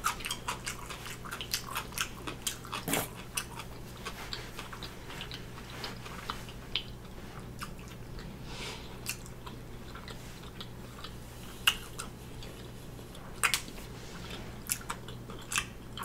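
Close-miked mouth chewing a crunchy homemade potato chip: rapid crisp crunches in the first few seconds, thinning out to scattered sharper crunches, over a faint steady hum.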